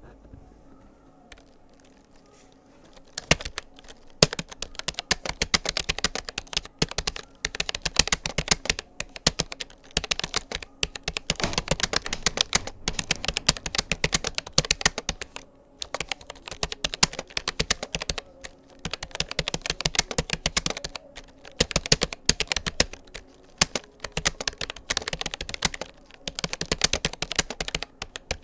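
Fast touch-typing on a Rapoo computer keyboard: a rapid, uneven run of key clicks with brief pauses between words, starting about three seconds in.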